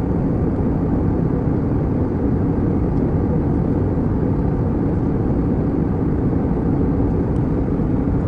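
Steady low roar of a passenger jet airliner heard from inside the cabin, an even rumble with no distinct events.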